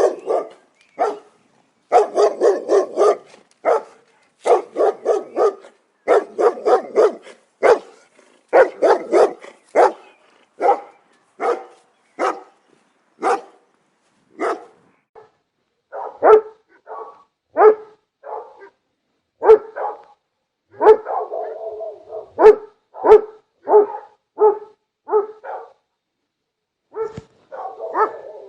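Dogs barking loudly in rapid volleys, then in separate barks spaced about half a second apart, with a short pause near the end.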